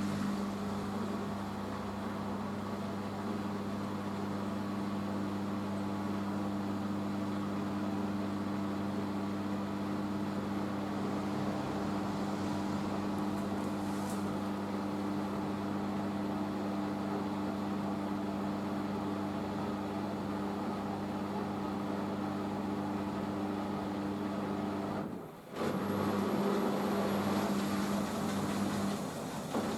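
Hoover H-Wash 500 washing machine's drum spinning during the rinse spin, a steady motor hum at constant speed. About 25 seconds in, the sound drops out for a moment and then picks up again.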